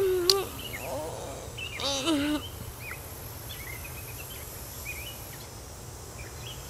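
Birds chirping faintly and intermittently over a steady low hum, after a short voice sound about two seconds in.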